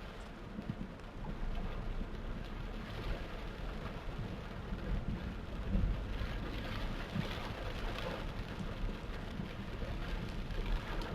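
Torrential rain pouring down steadily, with the low, steady rumble of a vehicle underneath.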